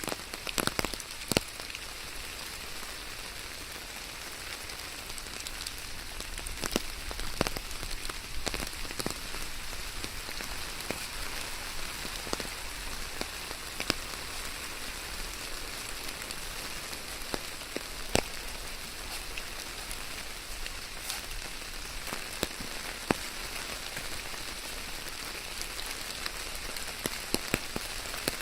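Steady rain falling, an even hiss with many individual drops tapping sharply at irregular moments.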